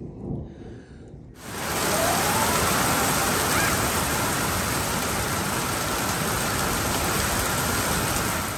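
Heavy downpour of rain, a dense steady hiss that starts abruptly about a second and a half in and cuts off just at the end.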